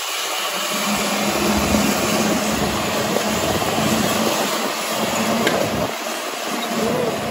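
A tram vehicle running steadily, with a constant low hum under a wide noise of motor, tyres and air.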